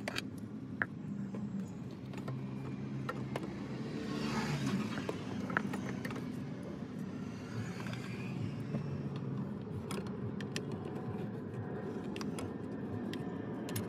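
A car engine running steadily in the background, with scattered light metallic clicks and a short hiss about four seconds in.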